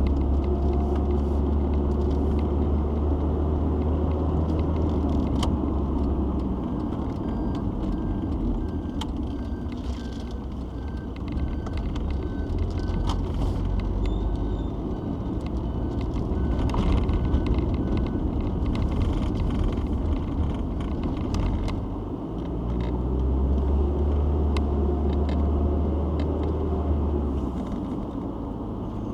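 Citroen XM being driven, heard from inside: a steady mix of engine and road noise, with a deep engine drone that swells for the first several seconds and again near the end. Through the middle stretch a faint short tone repeats about once every three quarters of a second.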